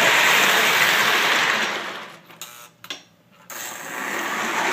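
Lionel O gauge steam locomotive with a Pullmor motor running along the track with a steady mechanical whir. It dies away about two seconds in, a couple of clicks follow, and it starts running again about a second later.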